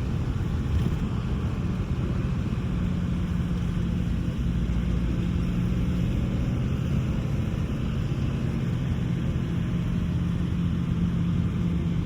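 Steady low engine rumble with an even hum underneath, from a large vehicle running at constant speed.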